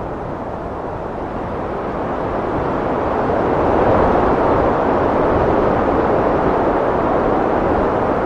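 Heavy wind blowing in a steady, loud rush that swells over the first few seconds and then holds.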